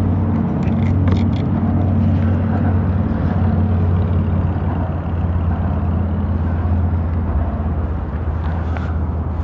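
A steady, low engine drone with no clear change over the few seconds.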